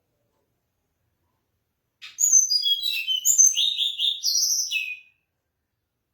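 Mangrove blue-flycatcher singing one phrase of about three seconds: quick high whistled notes at varied pitches that end in a falling note, starting about two seconds in.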